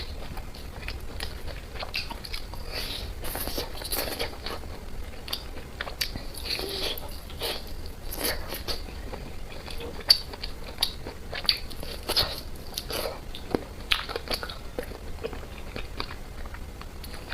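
A person eating close to the microphone: biting and chewing food with a run of irregular wet clicks and smacks, a few sharper ones about ten to fourteen seconds in.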